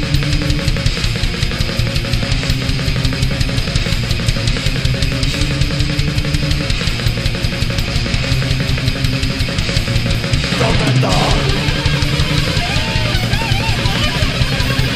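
Thrash/speed metal instrumental passage: distorted electric guitars, bass and a fast-driving drum kit, with no vocals. About ten seconds in there is a short break, and a wavering lead guitar line comes in over the riff.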